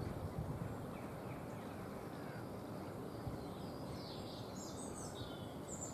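Small birds chirping, a handful of short, high, thin calls in the second half over a steady background hiss of outdoor ambience.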